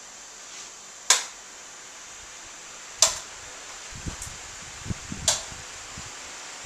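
Fridgemaster and Proline pedestal fans running with a steady whoosh of air, broken by three sharp clicks about two seconds apart, as of the fans' speed switches being pressed. A low rumble joins in for the last few seconds.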